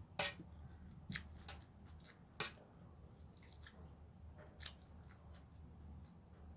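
Close-miked chewing of a raw vegetable salad: soft wet mouth sounds broken by about half a dozen sharp, crisp crunches, over a faint steady low hum.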